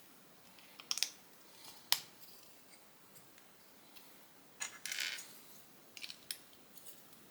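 Plastic Lego pieces being handled and pressed together: a few sharp separate clicks, with a short rattling scrape of parts about five seconds in.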